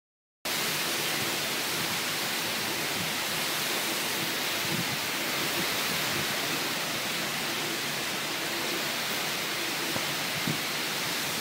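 Steady, unbroken rush of typhoon wind and driving rain, starting abruptly about half a second in.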